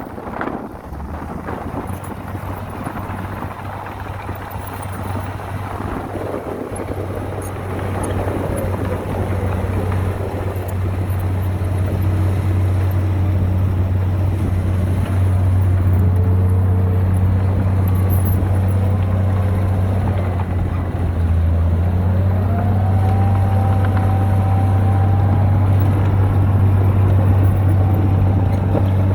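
Heavy construction machine's diesel engine running steadily with a deep hum, growing louder over the first dozen seconds, with a faint whine above it that slides up and down in pitch.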